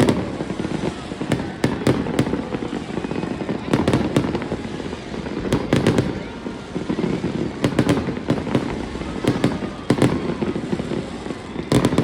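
Aerial fireworks going off in quick clusters of sharp bangs every second or two, over the continuous murmur of a crowd.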